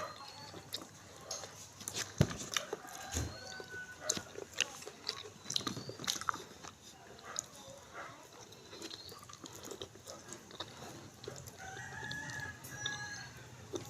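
Crunching and chewing of food close to the microphone, with irregular sharp crunches throughout. Short calls from birds are heard in the background, including a longer call about twelve seconds in.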